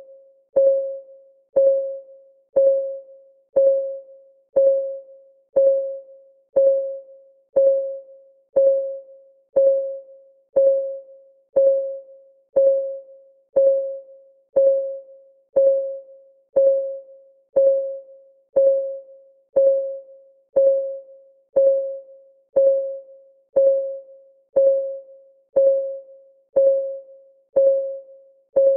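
Clock ticking sound of a countdown timer: one short, evenly spaced tick about every second, each with a brief pitched ring that dies away quickly.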